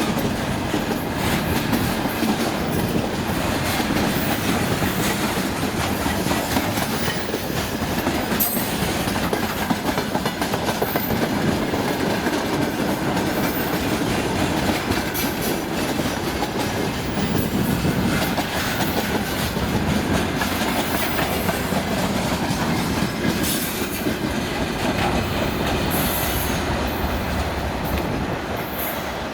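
Freight train wagons rolling past steadily, their wheels clattering over the rail joints. A few brief high-pitched squeals come from the wheels along the way.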